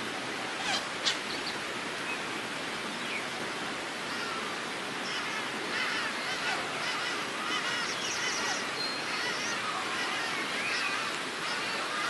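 A mix of birds chirping and calling over a steady rushing background noise, the calls growing busier from about four seconds in. Two sharp clicks come about a second in.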